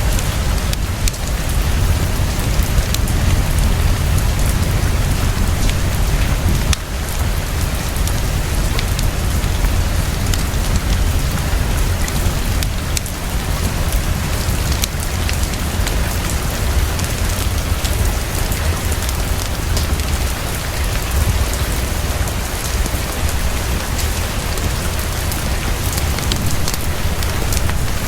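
Heavy, steady rainfall with a deep low rumble underneath and scattered sharp clicks through it.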